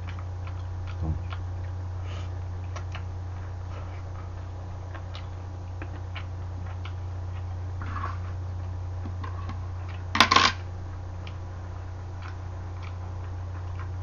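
Faint clicks and smacks of someone chewing freshwater eel heads and bones, over a steady low hum. A short, loud noisy burst with two peaks comes about ten seconds in.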